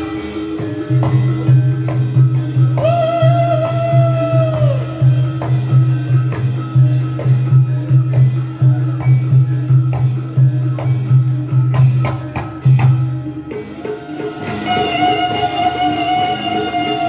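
Live Javanese reog and jaranan (kuda lumping) ensemble music: steady drumming and a pulsing low note under a held melodic line that comes in twice, first about three seconds in and again near the end.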